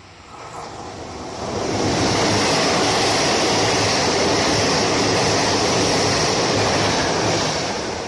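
Locomotive-hauled passenger train passing close by. The sound builds over the first two seconds as the locomotive arrives, then holds as a steady, loud rush of wheels on rails while the coaches go by, easing off near the end.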